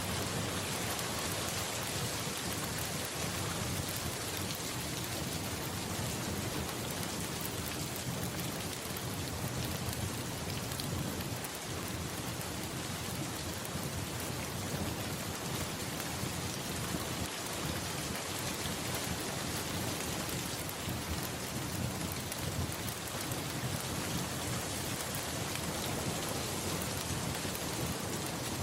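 Steady, even rain falling, an unbroken hiss with no single drops or claps standing out.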